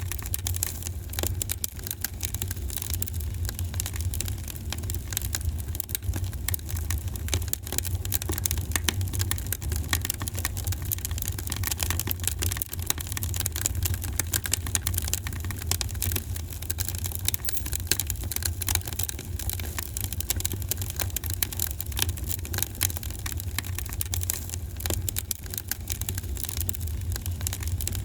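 Wood fire in a fireplace crackling, with many small irregular pops over a steady low rumble of the burning fire.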